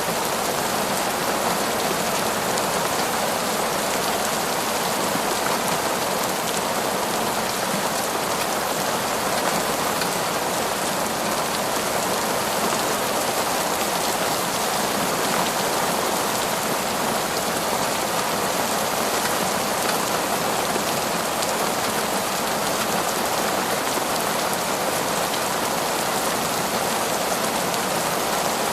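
Heavy, torrential rain falling steadily on forest foliage, a dense even downpour without breaks or thunder.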